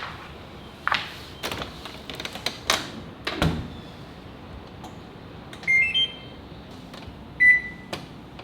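Knocks and clatter of handling at a washing machine, then its control panel beeping: a short rising run of electronic tones, and a single longer beep about a second and a half later.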